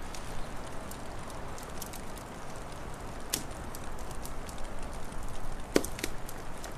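Wood fire crackling over a steady hiss, with scattered small clicks and sharper pops about three and a half seconds in and twice in quick succession near the end.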